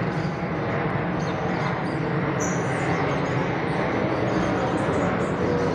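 Airplane on approach, a steady loud rumble of engine noise that swells slightly as it comes nearer.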